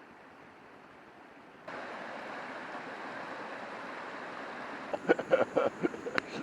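A river rushing as a steady noise, suddenly louder about a third of the way in; near the end a quick run of sharp clicks and knocks over it.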